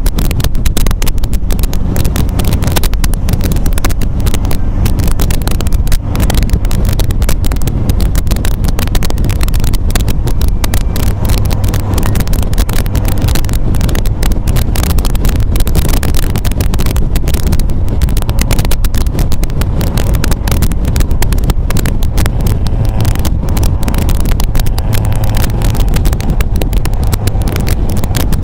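MGA roadster's four-cylinder engine running steadily while driving, with wind noise over the microphone.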